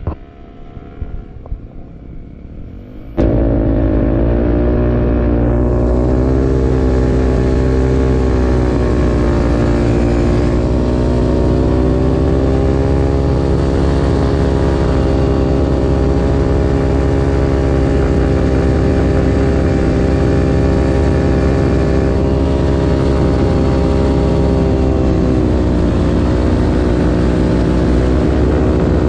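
A vehicle engine running at a steady speed, heard from on board, starting abruptly about three seconds in with a slight rise and fall in pitch.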